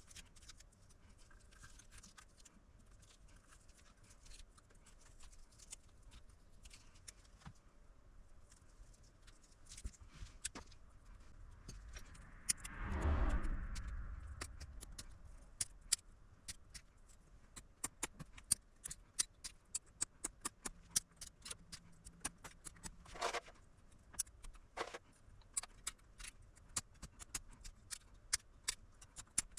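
Scattered small clicks and ticks of hand work at a repair bench, growing denser later on, with one louder rushing sweep that falls in pitch about thirteen seconds in.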